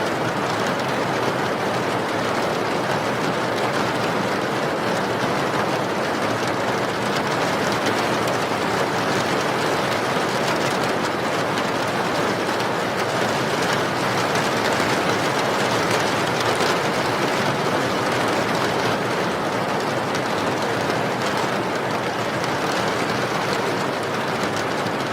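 Steady heavy rain falling, an unbroken hiss with a fine patter in it.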